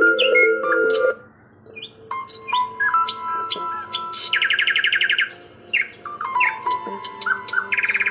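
Songbirds chirping and whistling over soft background music with held tones, with a rapid trill about halfway through and another near the end.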